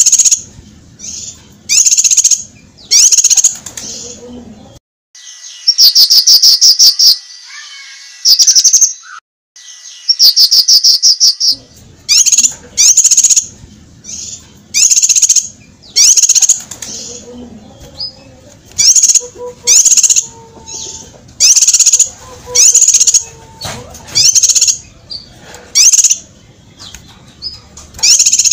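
Cucak kinoi singing: loud, sharp, high calls repeated about once a second, broken twice by a rapid trill lasting a couple of seconds.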